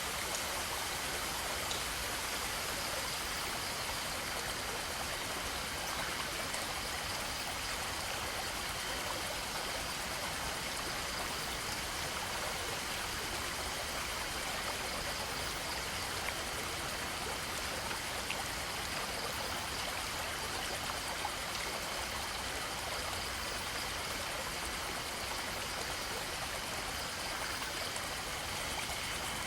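Stream water running steadily: an even, unbroken rush of flowing water.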